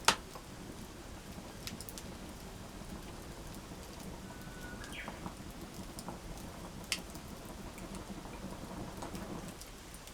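Wood campfire burning, with a steady low hiss and scattered sharp pops and crackles, the loudest right at the start and about seven seconds in.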